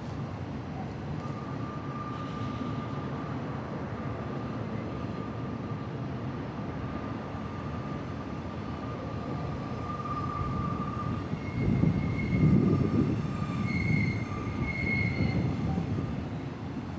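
Long freight train rolling slowly past, with wheel flanges squealing on the curving track in a long, steady high note under a continuous low rumble. The rumble swells louder about two-thirds of the way through, with short higher-pitched squeals.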